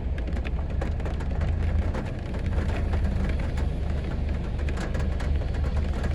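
Heavy rain falling in a city street: a steady hiss with many sharp, close drop hits, over a constant low rumble.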